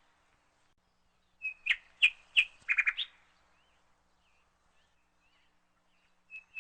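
A bird chirping. A few short, sharp calls come about one and a half to three seconds in, then faint scattered chirps, and a quick run of repeated chirps starts near the end.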